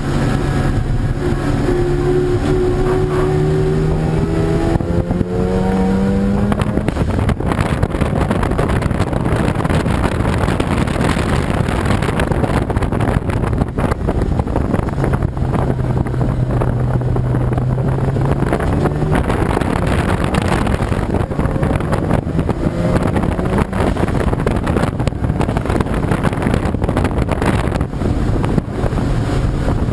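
Race car engines accelerating on track, the engine note climbing in pitch about twice over the stretch, under heavy wind noise on the microphone.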